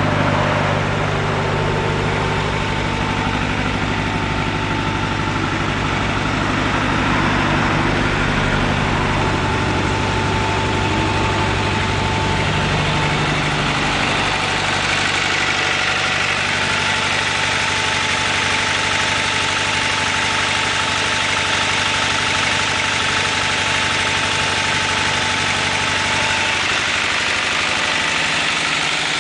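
Turbocharged Honda H23A inline-four idling steadily on a cold start. Its low note thins out about halfway through.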